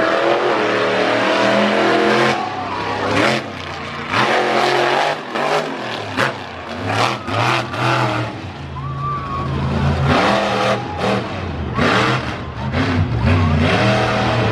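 Monster truck engine revving hard, its pitch climbing and falling again and again, with a few sharp bangs between about three and eight seconds in.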